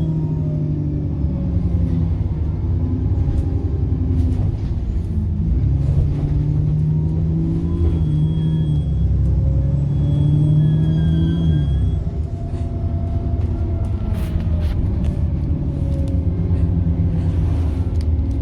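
Bus diesel engine pulling, with a high turbocharger whine that rises and falls, then eases off about twelve seconds in. Scattered knocks and rattles near the end.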